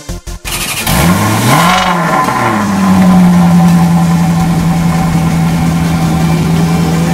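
Maserati GranTurismo V8 starting: the engine flares up in pitch, falls back within about a second and a half, then settles into a steady idle.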